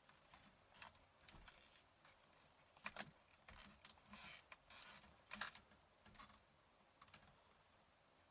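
Fountain pen writing on paper: faint, irregular short scratching strokes with a few sharper taps, the loudest about three seconds and five and a half seconds in.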